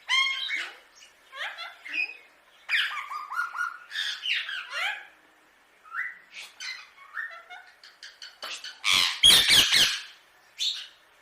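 Indian ringneck parakeet chattering in short, quick squawks and gliding calls. About nine seconds in, a brief cluster of loud knocks and rustling.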